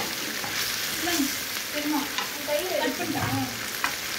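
Chicken varuval sizzling in a large aluminium pot as a metal slotted spoon stirs it, with a few sharp clicks of the spoon against the pot.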